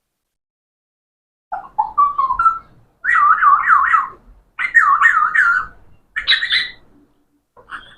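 A pet parrot whistling and warbling in several short bursts of quick, wavering notes, starting about a second and a half in.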